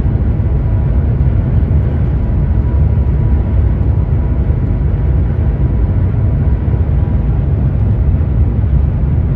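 Shanghai maglev train heard from inside the carriage while moving, a steady loud low rumble with a fainter hiss above it.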